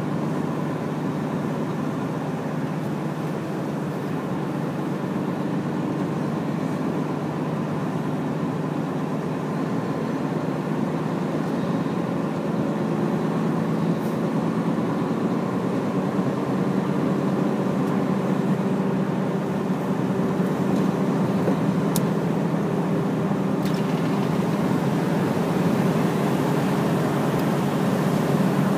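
Hino large truck's diesel engine running steadily under way, a low drone with road noise that grows a little louder through the second half. Two or three short clicks sound in the second half.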